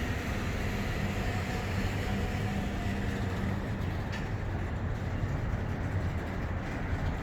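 Freight train with diesel locomotives, a steady low engine drone under an even rumble.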